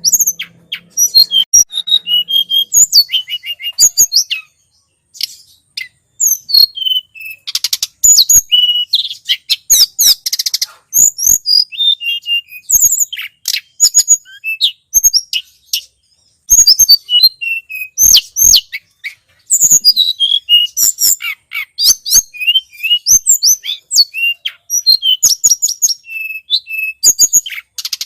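Tledekan gunung song from a bird-lure recording: rapid, high-pitched chirps, sweeping notes and short trills, nearly continuous, with two brief pauses.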